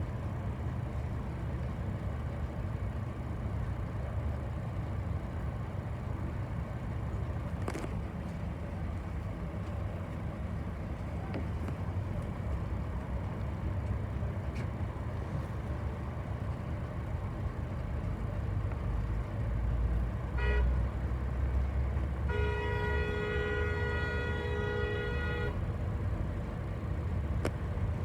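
Bus engine running with a steady low rumble. About twenty seconds in, a vehicle horn gives a brief toot, then sounds a steady honk for about three seconds.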